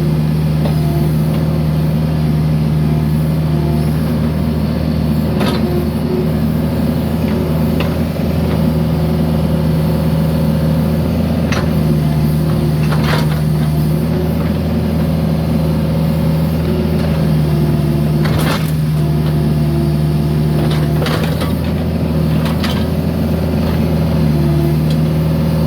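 Mini excavator engine running at a steady speed while digging, with about half a dozen sharp knocks spread through as the machine works the broken concrete.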